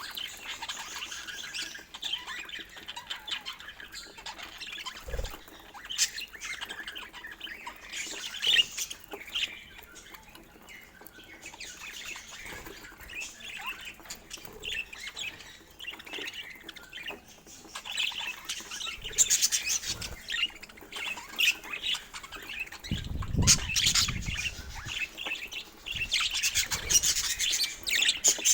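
Budgerigars chirping and chattering in quick, scratchy bursts, with a brief low thump about five seconds in and a short low rumble about 23 seconds in.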